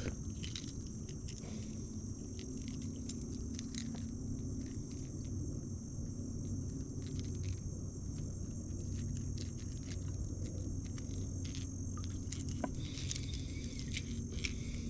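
Insects calling in a steady high-pitched chorus, with scattered short clicks and a low steady hum beneath.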